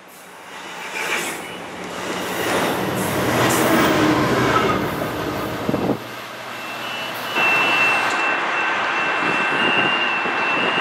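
Amtrak Pacific Surfliner bilevel passenger cars rolling past, growing louder for about six seconds before cutting off abruptly. After a short lull, a steady high-pitched squeal of steel wheels from a San Diego Trolley light-rail car starts about seven seconds in and holds.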